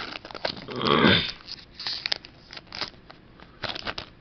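Foil booster-pack wrapper and trading cards being handled: irregular crinkles and light clicks, with a short breathy swell about a second in.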